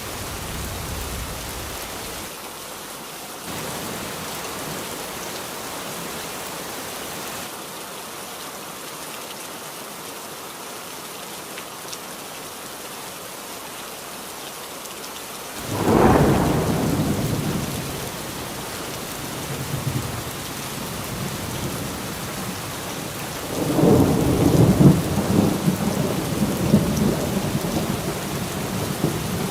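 Steady rain falling, with a sudden clap of thunder about halfway through that rumbles away over a couple of seconds. A second, longer roll of thunder follows near the end.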